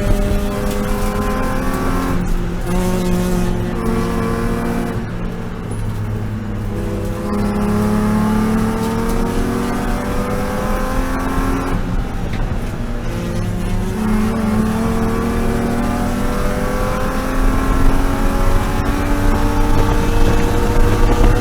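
BMW E36 M3 race car's straight-six engine under hard acceleration. Its pitch climbs repeatedly and drops back at lifts and shifts for corners, with a long steady climb through the last seven seconds or so.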